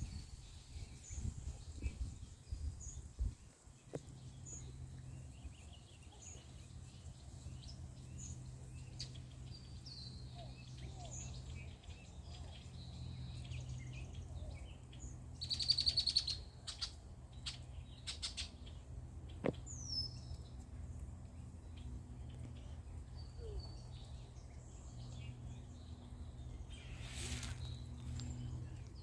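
Wild birds singing and calling: short high chirps repeating about once a second, a louder cluster of calls about halfway through, and a single falling whistle shortly after, over a steady low hum.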